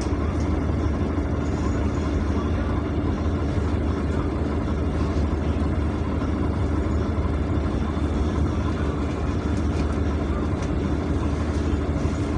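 Steady drone of a PAZ-422320-04 Citymax 9 city bus running, heard from inside the passenger cabin, with a deep hum and a steadier, higher tone over it.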